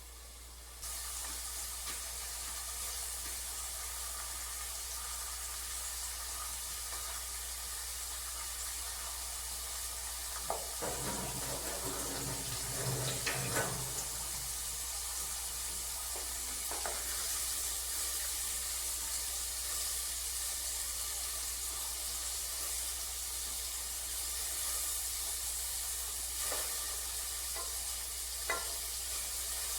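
Onion frying in a pan, sizzling steadily, starting abruptly about a second in. A few knocks and scrapes of cookware around the middle, and a couple of sharp clicks near the end.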